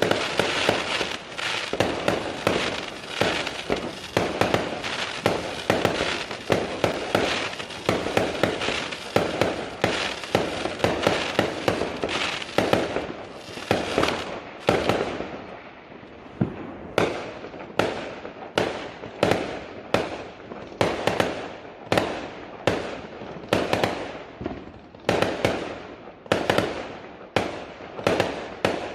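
Fireworks going off: a dense run of overlapping bangs and crackling for about the first half, then a steady series of separate sharp bangs, roughly two a second.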